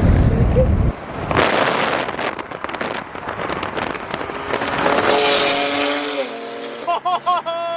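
BMW F82 M4's twin-turbo inline-six revving hard through an exhaust with a pop tune, letting off a rapid string of loud pops and crackles. Its engine note rises and falls after the crackling dies down.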